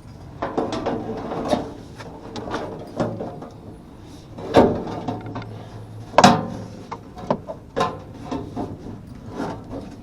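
Irregular knocks, clicks and clatter of hands working on equipment, with two louder knocks about four and a half and six seconds in, over a faint low steady hum.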